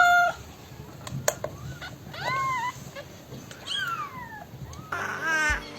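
A pet animal's pitched cries: a held call ends just after the start, then two more drawn-out cries, one rising and falling, one sliding down. Near the end, music comes in with a quick run of short calls.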